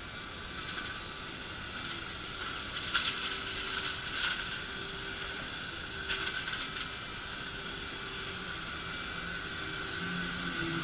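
A vacuum cleaner running with a steady whine, with bursts of rattling clicks about two to four seconds in and again around six to seven seconds, like debris being sucked up.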